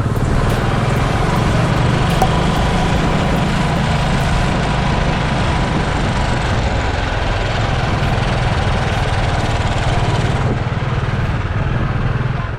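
Royal Enfield Classic 350's single-cylinder engine running while the motorcycle is ridden, with steady wind and road hiss over the engine beat. The hiss thins about ten seconds in.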